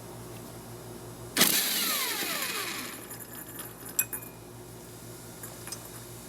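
Power impact wrench fires a short burst to loosen the flywheel nut on a Briggs & Stratton mower engine, its motor whine falling in pitch as it winds down. A sharp metallic click follows a couple of seconds later.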